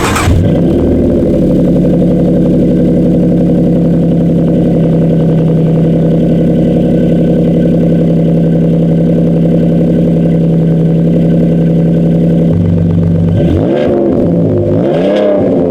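Pickup truck's exhaust through a Flowmaster Super Series 44 muffler, idling steadily, with a short rev just after the start and two quick revs near the end.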